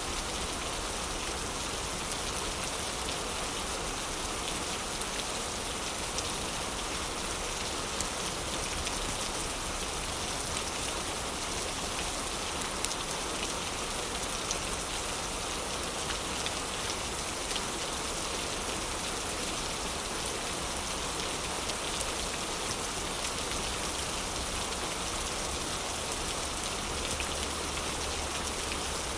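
Steady heavy rain, with a few faint crackles from a fireplace now and then.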